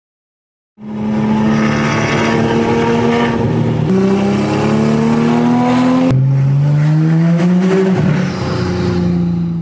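A 2020 Toyota Supra's B58 turbocharged inline-six under hard acceleration, loud. The exhaust note climbs steadily in pitch and drops sharply three times, as at upshifts, then holds steady near the end.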